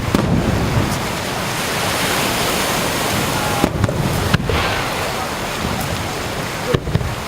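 Surf breaking on the shore, a steady rushing noise.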